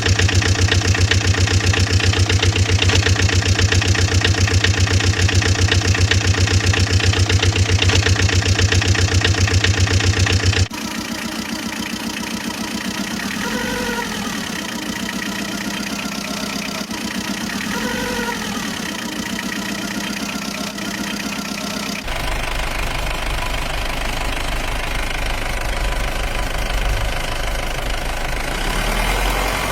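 Vehicle engine sounds in three abruptly cut segments: a loud, evenly chugging engine for about the first ten seconds, then a quieter engine with two brief rising-and-falling tones, then a deeper engine running for the last third.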